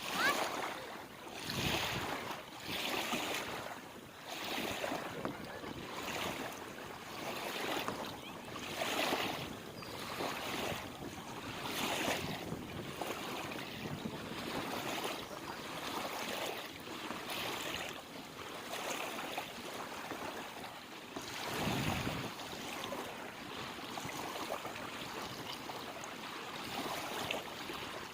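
Lake water splashing and lapping in recurring surges every one to three seconds, with wind on the microphone.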